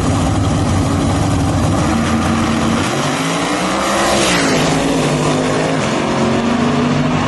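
Loud race-vehicle engine running, its pitch rising from about three seconds in and dropping back sharply a little over four seconds in, then holding steady.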